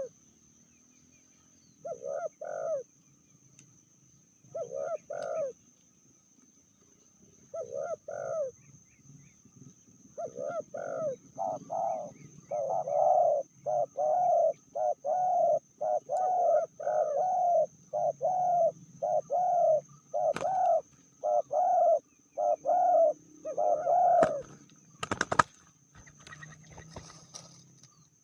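Spotted dove (tekukur) cooing: double coo phrases about every three seconds at first, then a fast unbroken run of coos from about ten seconds in. A sharp knock sounds near the end.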